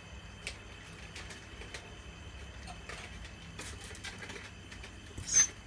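Dogs eating from their bowls: scattered faint clicks and crunches of food and bowls, with one louder, sharper knock with a brief squeak near the end.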